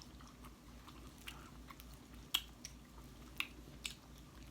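Faint close-up chewing on chicken feet, broken by about five sharp, short mouth clicks of lips and teeth.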